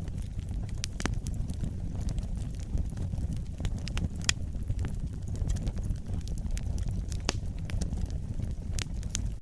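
Wood fire burning with a steady low rumble and scattered sharp crackles and pops of burning logs, the loudest pop about four seconds in.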